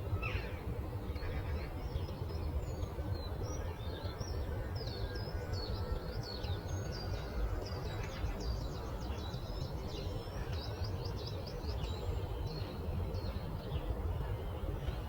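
Small birds chirping with many quick high calls, thickest in a rapid run of chirps in the middle, over a steady low rumble of outdoor background noise.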